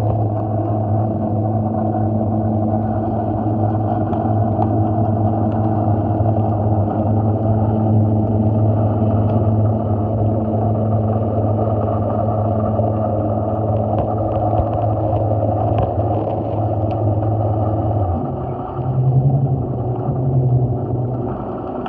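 Steady low motor hum with several evenly spaced tones, stopping abruptly about 18 seconds in, followed by a higher wavering tone for a couple of seconds.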